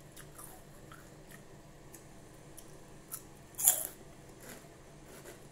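Close-up chewing of crunchy chicharon (fried pork rinds), with small crisp crackles throughout and one louder crunch a little past halfway.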